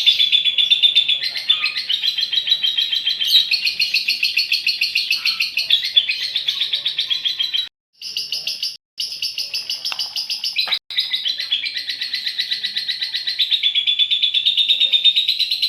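Female lovebird's long, fast chattering song (ngekek panjang), a continuous shrill trill broken by a few short silent gaps around the middle where the recording is spliced.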